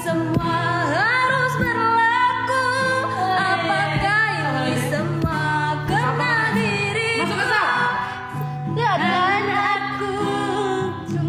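A woman singing over backing music, holding long drawn-out notes with sliding bends and runs in pitch.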